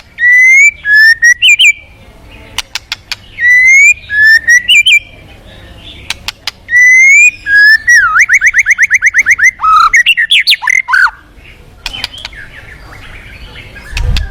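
White-rumped shama (murai batu) singing loud, rising whistled phrases that repeat every few seconds. About eight seconds in there is a fast, even trill, and sharp clicking notes fall between the phrases.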